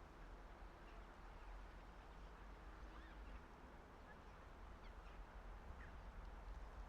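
Faint outdoor ambience: a low, steady rumble of distant city noise and wind, with a few brief, faint bird chirps scattered through it.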